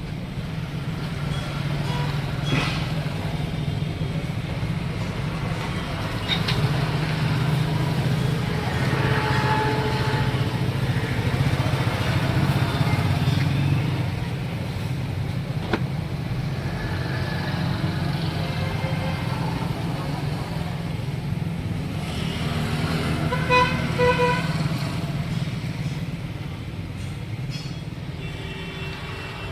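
A steady low motor hum with passing traffic. A vehicle horn honks briefly, in a couple of short toots, about three-quarters of the way through. A few sharp clicks sound in between.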